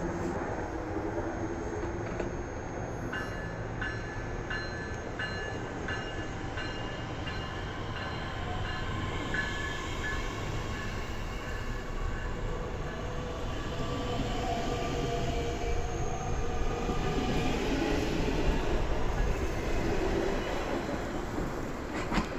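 Electric commuter train pulling into a station, its running gear rumbling and growing louder as it comes near. A high ringing repeats quickly through the first half.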